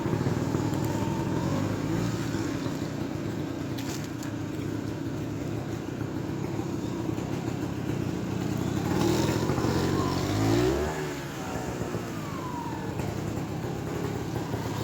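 Trials motorcycle engine running at low revs, with a burst of throttle about nine to ten seconds in that rises and then falls in pitch.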